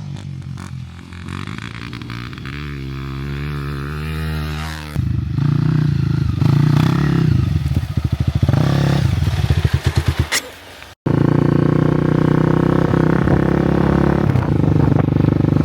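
An enduro dirt bike's engine running. It runs steadily at first, gets louder about five seconds in, then gives a run of quick throttle blips. After that the sound cuts out for an instant and the engine runs on loud and steady.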